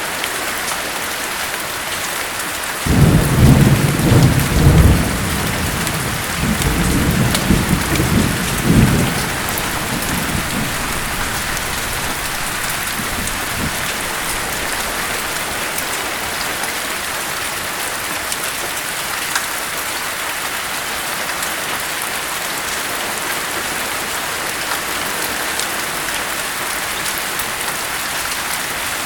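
Steady rain with a rumble of thunder that breaks in suddenly about three seconds in, rolls in several swells for about six seconds, and dies away.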